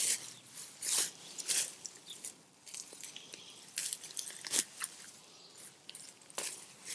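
Irregular crunching and scraping of dry, hard garden soil being dug through by hand while searching for potatoes, with about half a dozen sharper scrapes among quieter rustling.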